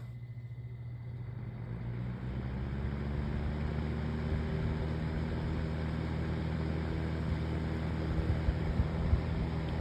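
Konwin electric fan heater running on fan only: its motor hums and the blower spins up over the first couple of seconds, then settles into a steady rush of air.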